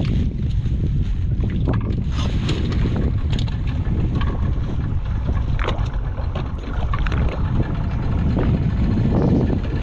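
Wind buffeting the microphone aboard a small open boat at sea: a heavy, steady rumble with a few scattered knocks.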